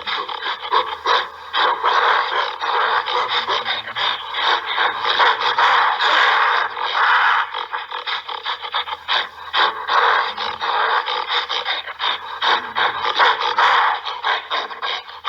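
Gorilla making harsh, raspy, breathy vocal sounds, continuous and uneven in loudness.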